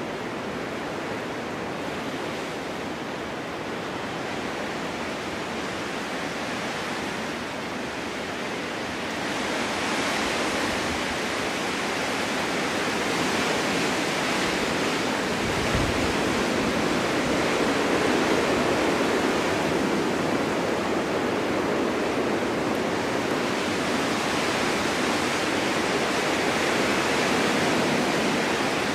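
Snowstorm wind blowing as a steady rushing noise, growing louder about ten seconds in and swelling again in gusts later on.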